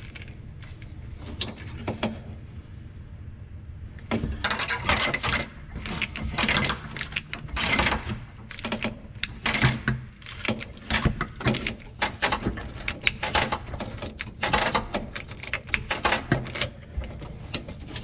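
Safety wire twisting pliers clamped on stainless safety wire and spun, giving spurts of rapid metallic rattling and clicking as the wire is twisted tight, starting about four seconds in.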